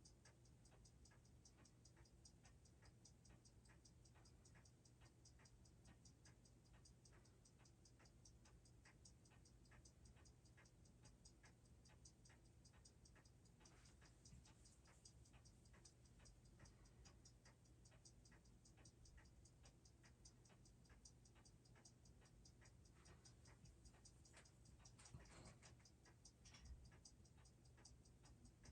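Seiko 6R15 automatic watch movement ticking faintly in rapid, even beats over a steady low hum, with a brief rustle near the end.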